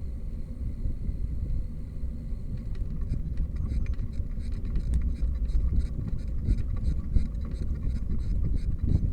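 Wind and road rumble on the microphone of a moving bicycle. About three seconds in, a regular high ticking starts, roughly four ticks a second, and keeps going.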